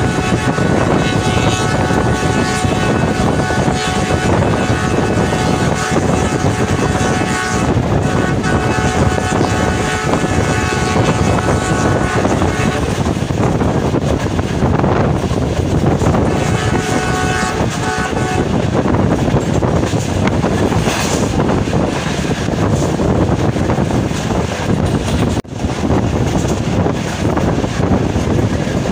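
Jaffar Express passenger train running along the track: a loud, steady rumble of the moving coaches. A steady pitched tone sits over it for the first dozen seconds and returns briefly about sixteen seconds in.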